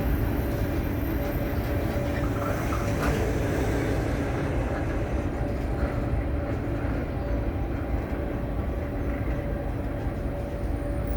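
Train moving through a station: a steady low rumble of wheels and running gear, with faint steady tones over it.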